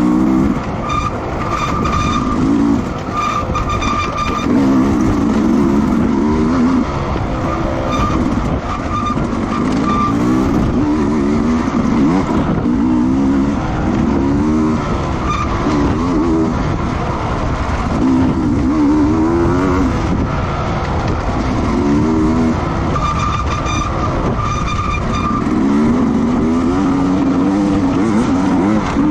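Racing motorcycle engines running at high revs, their pitch rising and falling over and over as the bikes go by and shift, over a steady noisy rush.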